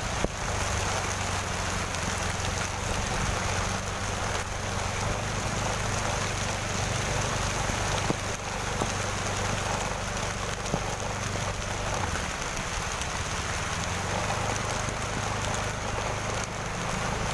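Steady heavy rain falling, with a low steady hum underneath that stops about two-thirds of the way through and two brief knocks.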